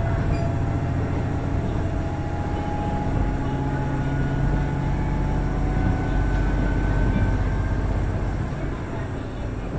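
Running sound inside a KiHa 110-series diesel railcar, its Cummins DMF14HZA engine giving a steady low drone, with faint whines slowly rising in pitch.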